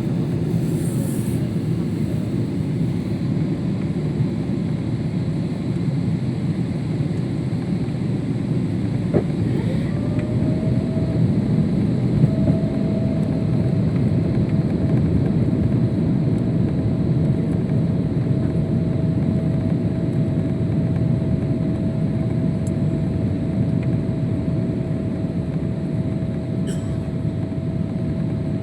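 Steady cabin noise of a Boeing 777 airliner in flight, a dense engine and airflow rumble. A thin whine rises about nine seconds in, holds steady, and drops away near the end.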